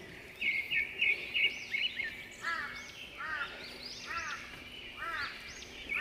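Several forest birds singing: a quick run of short whistled notes in the first two seconds, then a repeated arching call about once a second, over thinner high chirps.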